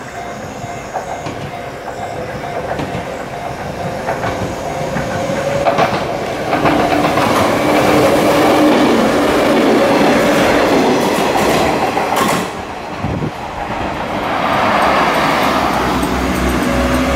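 Level-crossing warning bells ring as a JR West 105-series electric train approaches and runs over the crossing. Its wheels clack over the rail joints, loudest from about six to twelve seconds in. The sound drops briefly, then a second stretch of steady noise follows near the end.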